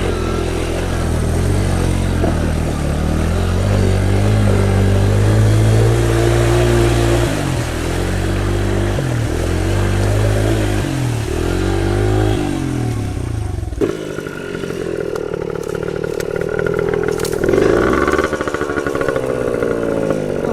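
Small pit bike engine revving up and down repeatedly under load as the bike is ridden through deep floodwater; about 14 seconds in the engine sound changes abruptly, becoming thinner with some clattering.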